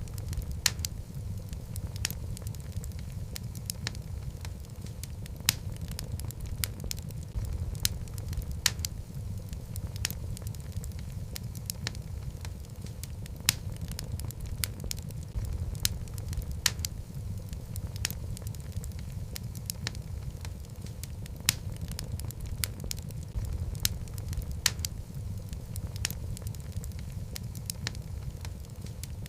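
Wood fire of burning logs crackling, with a steady low rumble of flames and frequent sharp, irregular pops.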